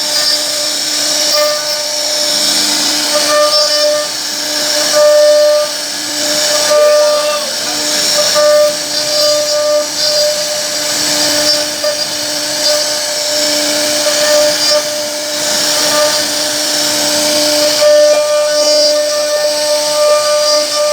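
CNC router spindle running and cutting into wood: a steady whine with a bright hiss of the bit chipping wood, swelling and easing as the cutter moves through the pocket.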